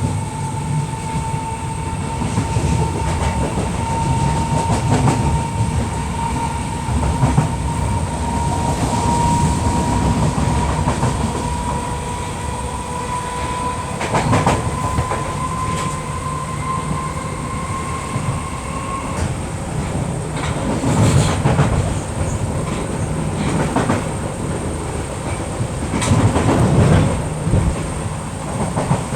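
Merseyrail Class 508 electric multiple unit on the move, heard from on board: a steady running rumble with a thin motor whine that slowly rises in pitch as the train gathers speed, then cuts off about two-thirds of the way through. Wheels clack over rail joints a few times, most plainly in the second half.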